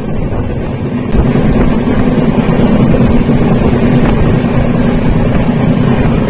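Passenger train running: a steady rumble from the moving coach with wind on the microphone, growing louder about a second in and then holding steady.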